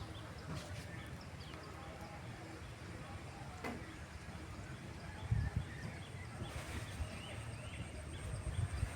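Birds chirping in short calls, with low rumbling bursts that are loudest about five seconds in. A thin, steady high tone joins past the middle.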